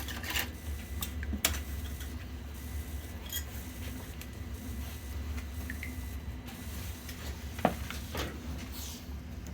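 Scraping and clicks of a metal tool working inside a steam boiler's sight-glass fitting to clear out rust, over a steady low hum, with sharp clicks about a second and a half in and again near the end.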